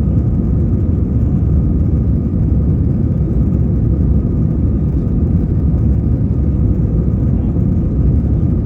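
Steady cabin noise inside an Airbus A320 with its engines running: a deep, even rumble with a faint steady whine above it.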